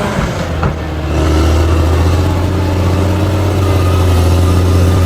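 Heavy earthmoving machine's diesel engine running steadily under load, a deep constant drone with a brief knock about half a second in.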